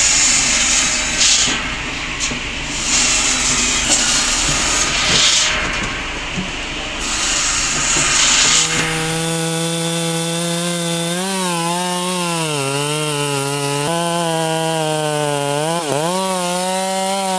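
A power saw cutting through wood, a rough hiss that rises and falls in bursts. About halfway through, a chainsaw engine takes over, running fast and steady, its pitch dipping now and then as it takes load in the cut.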